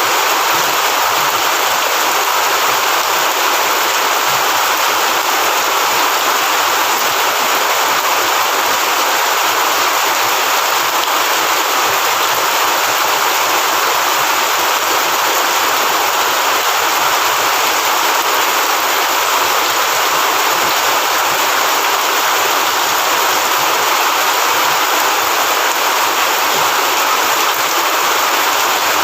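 Heavy rain falling steadily: an even, unbroken hiss with no let-up.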